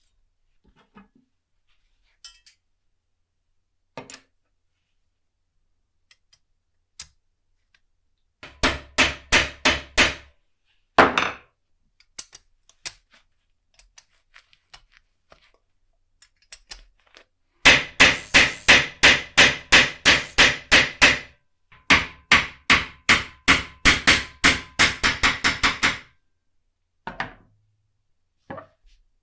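A small hammer tapping in quick runs of about four blows a second, with scattered single clicks and knocks between the runs.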